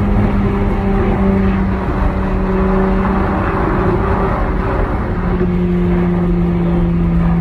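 Ferrari 488 Pista's twin-turbo V8, fitted with catless downpipes, running steadily under way, heard from inside the cabin with road noise. Its pitch drops slightly about five seconds in.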